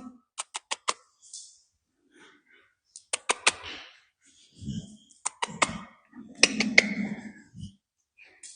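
Dog's toenails clicking on a hard surface as it steps about, in quick clusters of three or four clicks, with some low shuffling in between.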